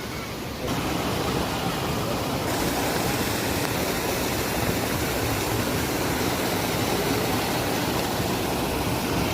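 Steady rushing noise, like running water or a strong breeze, that jumps up in level just under a second in and grows brighter a couple of seconds later.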